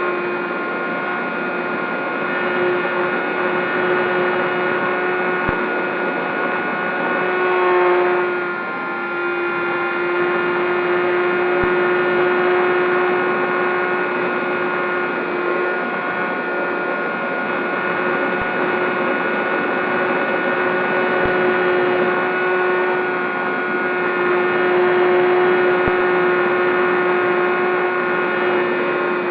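Brushless electric motor and propeller of a Zohd Talon GT Rebel RC plane in flight: a steady whine that wavers briefly about eight seconds in, then holds steady again.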